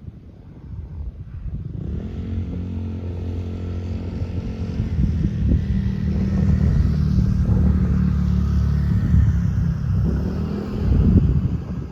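MJX HyperGo H12Y RC truck driving: its electric motor and drivetrain run with a steady drone that builds up over the first two seconds, with scattered clicks and rattles throughout, and a louder surge near the end.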